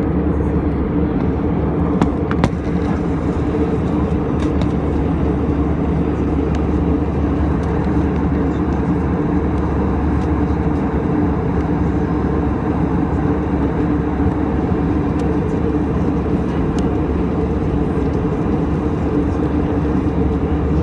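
Steady cabin noise of an Airbus A320 in flight: the low roar of the engines and airflow heard from inside the passenger cabin. A couple of short knocks or rattles come about two seconds in.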